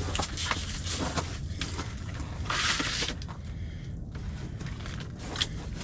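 Scattered knocks, scrapes and rustling of people handling things on the ice, over a low steady hum.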